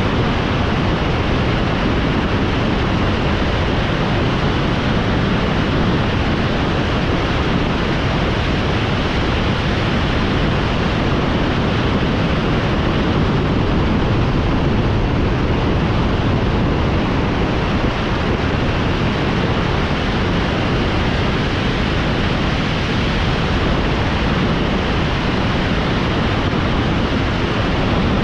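Steady rushing noise, even throughout, with no distinct engine note or other events standing out.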